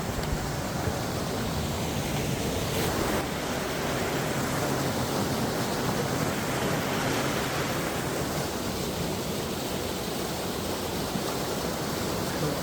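Steady rushing of a canyon stream flowing over rocks, an even unbroken roar.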